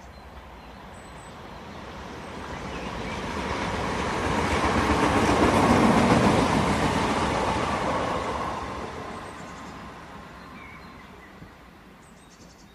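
A moving train running on the tracks: a rush of rumble and hiss that builds to a peak about halfway through and then fades away.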